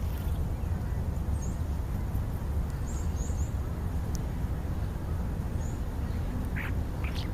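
Steady wind rumble on the microphone, with faint short high bird chirps a few times and two brief calls near the end.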